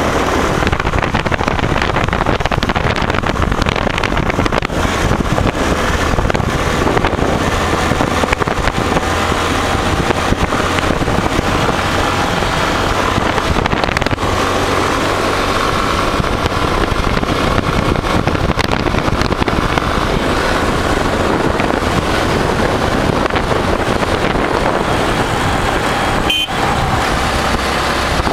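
Karizma motorcycle being ridden, its engine running steadily under a loud, even rush of wind on the microphone.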